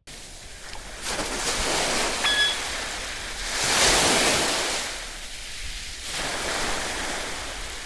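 Sea waves washing in and out in swells, loudest about four seconds in, with a short high squeak about two seconds in.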